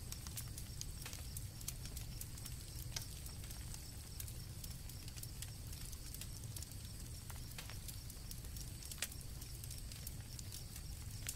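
Campfire crackling with irregular sharp pops over a low steady rumble, the sharpest pop about nine seconds in, with crickets chirring steadily in the background.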